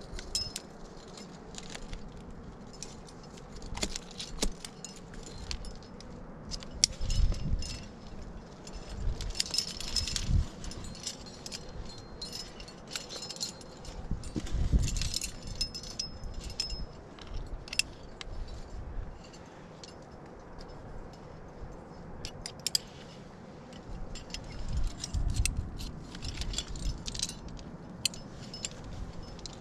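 Metal climbing hardware, carabiners and gear on a harness, clinking and jangling in irregular bursts, with dull low thumps of handling.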